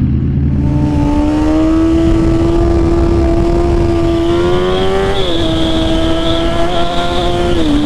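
Sportbike engine running steadily under way, its pitch creeping up and then dropping twice, about five seconds in and near the end, over a low wind rumble.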